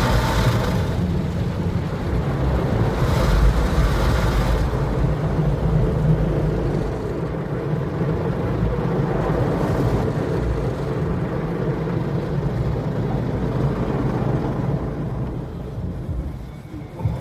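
Automatic car wash working over the car, heard from inside the cabin: a steady rush and low rumble of water and machinery, hissier for the first few seconds, then settling to a duller steady rumble.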